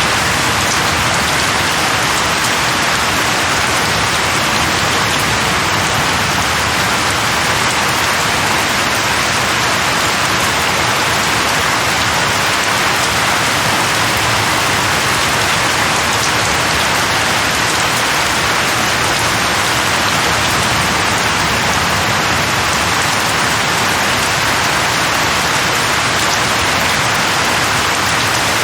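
Steady rain falling on leaves, an even, unbroken patter that holds the same level throughout.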